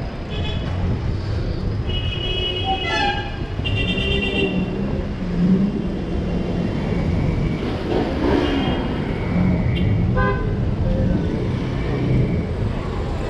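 City street traffic: a steady rumble of engines and tyres with car horns honking. There are two longer honks about two and four seconds in, and short toots later.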